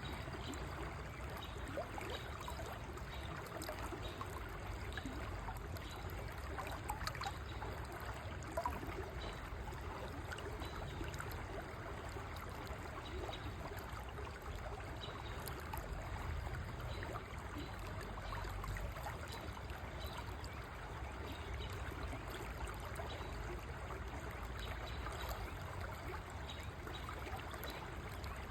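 River water flowing steadily, a continuous trickling and gurgling rush.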